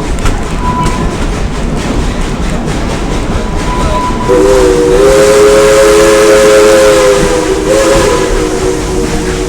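Steam locomotive's chime whistle blowing one long, three-note blast that starts about four seconds in, over the steady rumble and clatter of the train rolling along the track.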